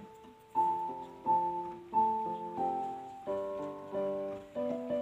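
Solo piano background music: a slow melody of gently struck notes over held chords.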